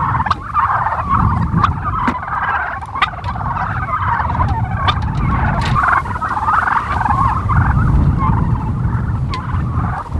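A flock of turkeys calling continuously, many overlapping calls at once, with a low rumbling noise underneath and a few sharp clicks.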